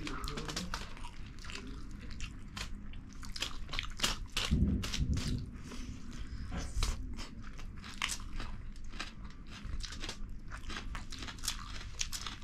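Close-miked chewing and eating of rice and fish curry: many irregular short mouth clicks, with a brief low rumble about halfway through.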